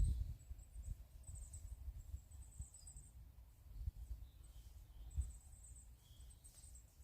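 A small woodland bird singing very high, thin trilled phrases, repeated several times with short gaps. Underneath are a low rumble and a few soft knocks, the loudest right at the start and about five seconds in.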